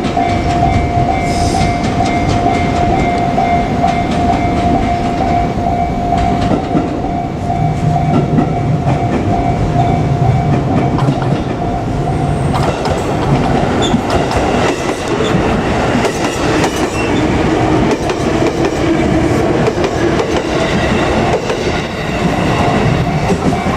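JR Kyushu 787 series electric limited express train running past, its wheels clattering over the rail joints, with the rumble heavier from about halfway through. A steady high warning tone from the level crossing sounds through the first half and comes back near the end.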